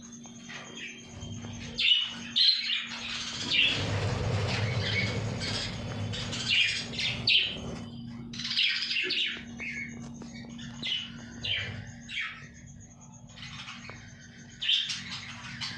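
A colony of budgerigars chirping and chattering, many birds calling at once in quick short chirps, over a steady low hum.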